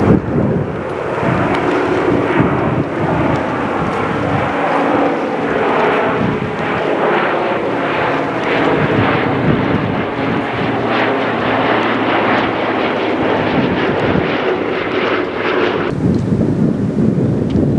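Piston-engined World War II warbirds flying past, a loud, steady engine drone with tones that slowly shift in pitch. About sixteen seconds in, the sound changes abruptly to a lower, duller rumble.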